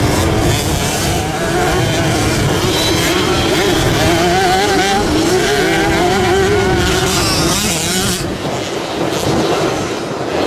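Motocross bike engines revving hard, their pitch rising and falling repeatedly as the throttle is worked.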